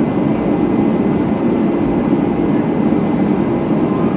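Steady rumble of an Airbus A320-211's CFM56 jet engines and airflow, heard from inside the passenger cabin.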